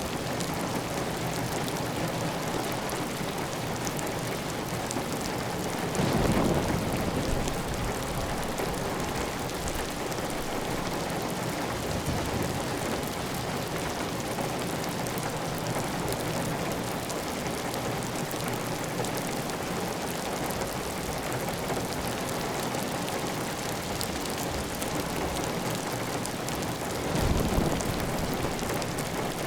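Steady heavy rain on a clay tile roof, with water running off the roof edge. The rain swells louder twice, about six seconds in and again near the end.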